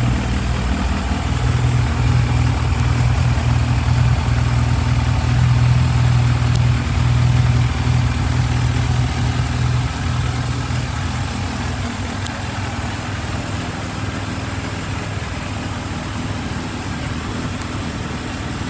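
Yamaha YZF1000R Thunderace's inline-four engine idling steadily; its level drops a little about ten seconds in, then holds.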